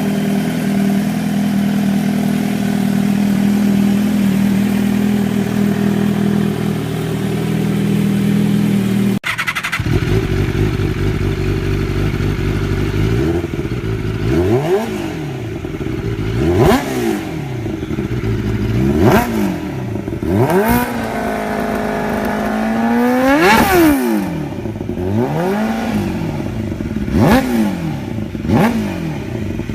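Motorcycle engine running at a steady pitch for about nine seconds, then after an abrupt change, high-revving motorcycle engine sound whose pitch climbs and falls again and again, about every two seconds. Near the middle of that stretch there is one longer climb to high revs.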